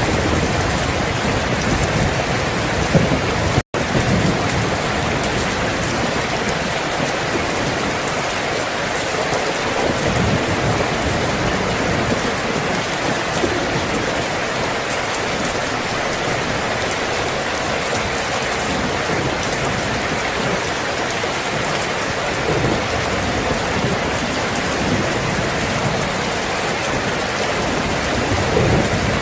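Steady rain, with low rumbles of thunder near the start and again near the end. The sound drops out for an instant about four seconds in.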